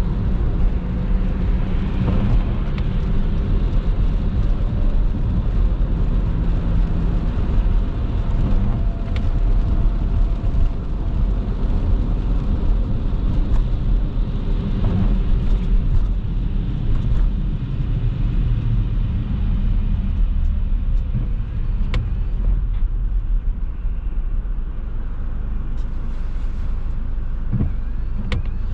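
Car driving on a wet road: steady low road, tyre and engine noise, with a few faint clicks near the end.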